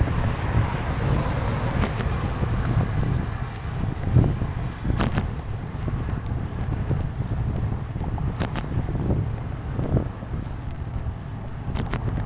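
Wind rumbling over an action camera's microphone during a bicycle ride, with tyre and road noise underneath. A few sharp clicks or rattles come about every three seconds.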